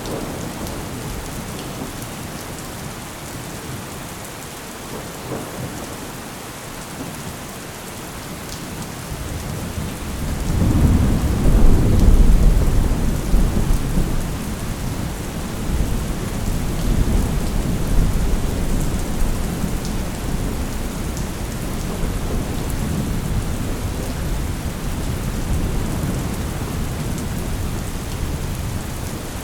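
Steady rain with thunder: a deep rumble builds about ten seconds in, peaks a couple of seconds later, and rolls on more softly under the rain.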